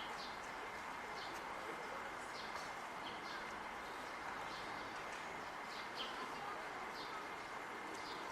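Short, sharp high bird calls repeated every half second to a second, over a steady background hiss and a faint steady high whine.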